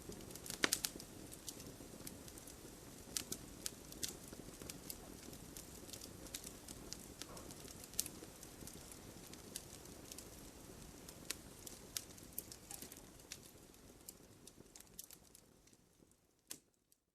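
Wood campfire burning, logs crackling with frequent irregular sharp pops and snaps over a soft low rush of flame. The fire sound fades away in the last few seconds, with a final pop just before it goes silent.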